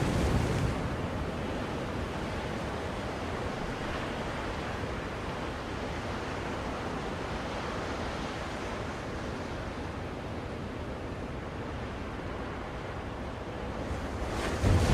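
Ocean surf: a steady wash of waves, with one wave dying away in the first second and the next wave swelling up loudly near the end.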